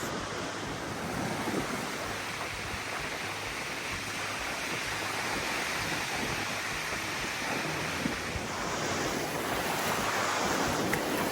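Surf washing onto a Gulf beach, a steady rush of noise that swells a little near the end, with wind on the microphone.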